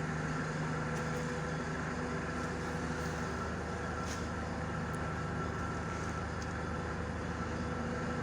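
Steady low mechanical hum with several constant tones and a few faint ticks.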